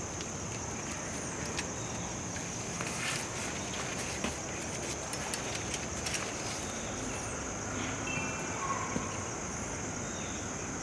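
Steady high-pitched trilling of crickets in the garden, with scattered clicks and rustles of handling close by and a few faint short chirps.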